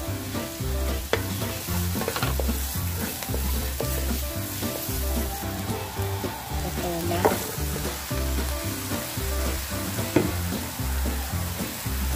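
Chopped onion, garlic and ground pepper sizzling in hot oil in a nonstick wok as they are stirred, with a few sharp scrapes or clicks of the spatula, over background music.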